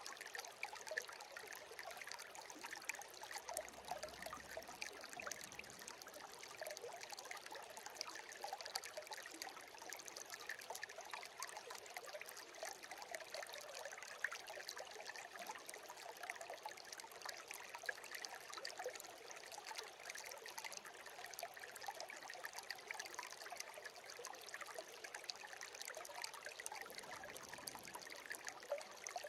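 Small stream babbling and trickling steadily, a light, even rush of running water.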